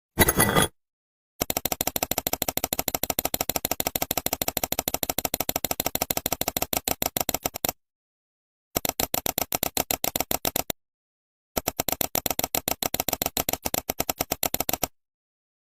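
A rapid, even rattle of clicks, about ten a second, in three runs cut off by dead silence, after a short loud burst at the very start.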